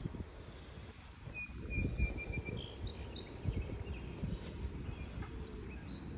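Songbirds calling: a quick run of short repeated notes about a second in, then a few higher chirps, over irregular low thuds of footsteps on a paved path.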